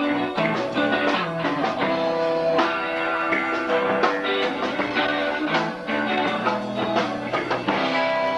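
Live rock band playing a song: electric guitar over bass guitar, with drums keeping a steady beat.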